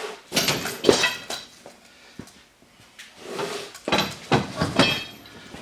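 Metal tools clinking and clanking against steel, in two bunches of sharp ringing knocks, one near the start and one from about the middle, while work starts on the rusted bolts of a snow plow flap.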